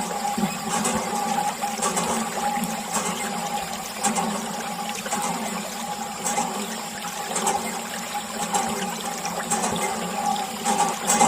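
Water splashing and trickling from a small DIY mini water pump, over a steady hum, with faint regular clicks about once a second.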